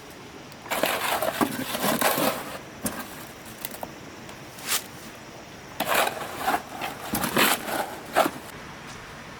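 Two spells of gritty scraping and crunching, the first about a second in and the second around six seconds in, each made of several short strokes.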